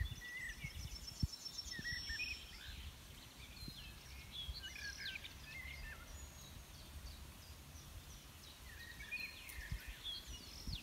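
Small birds chirping and calling: short chirps and whistled glides scattered throughout, with a quick ticking trill in the first couple of seconds. A low rumble and a few soft knocks sit beneath.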